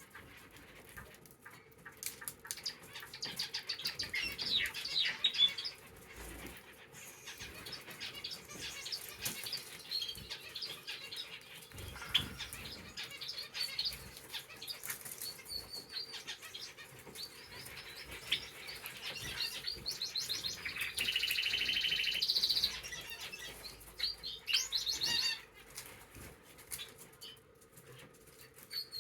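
Small cage birds (canaries and finches) chirping and calling, with wing flutters and quick clicks from pecking and hopping on the cage floor as they forage for seeds. A louder, faster trilling phrase comes about two-thirds of the way through.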